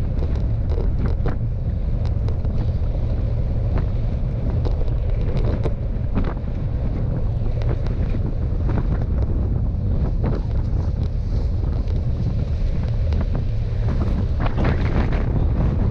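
Wind buffeting the microphone of a rider on a moving bicycle: a loud, steady low rumble, with scattered short clicks and knocks.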